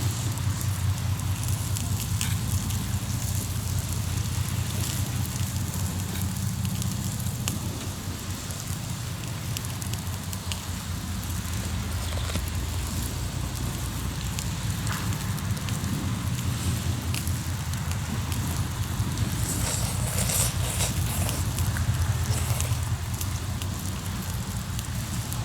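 Hardwood campfire crackling in a fire pit, with scattered sharp pops, over a steady low rumble.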